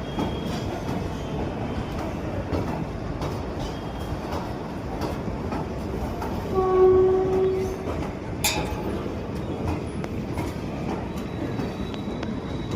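Train hauled by a WAP-4 electric locomotive running through the station, its wheels rumbling and clicking over the rail joints. A single steady horn blast sounds for about a second a little past the middle, the loudest part, followed by a sharp metallic click.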